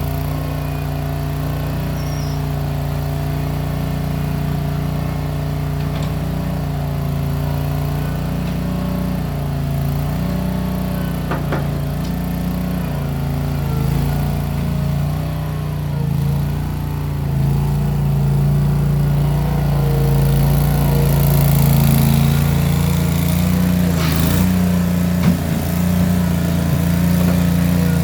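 Case 1816 skid steer's engine running steadily, its speed shifting slightly and rising somewhat in the last third, with a couple of brief clanks.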